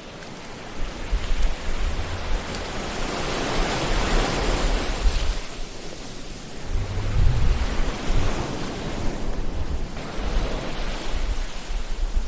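Ocean waves washing onto a shore, swelling and easing: one swell about four seconds in, and a deeper surge a few seconds later.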